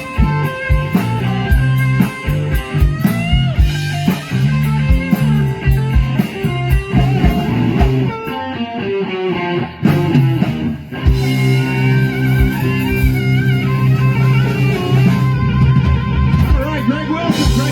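Live blues band playing an instrumental passage: electric guitar bending notes over a bass line and drum kit.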